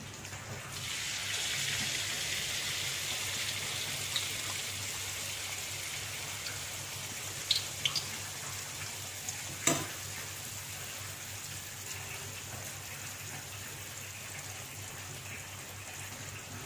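Cucur batter sizzling steadily as it is ladled into shallow hot oil in a wok, the sizzle starting about a second in. A few sharp clicks come near the middle, the loudest about ten seconds in.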